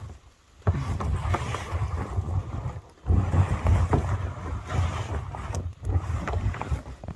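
Wind buffeting the microphone in uneven gusts, a low rumble that drops out briefly near the start and again about three seconds in, with scattered short clicks.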